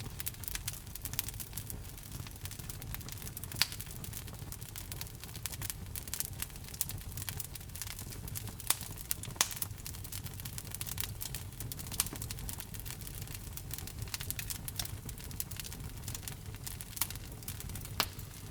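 Fire in a fireplace crackling steadily over a low rumble, with irregular snaps and a few louder pops.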